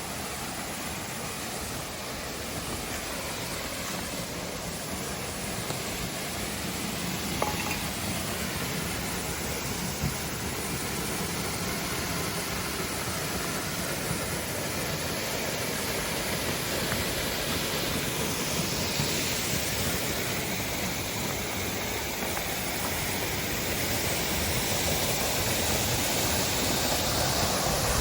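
Rushing creek water, a steady hiss that grows gradually louder.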